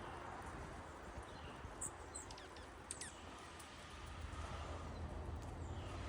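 Wild songbirds giving scattered short, high chirps, with a few quick downward-sweeping calls in the middle, over a steady low background rumble.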